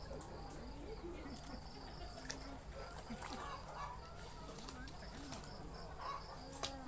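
Rural ambience: a steady high insect drone, with many faint short low calls and a few sharp clicks or taps.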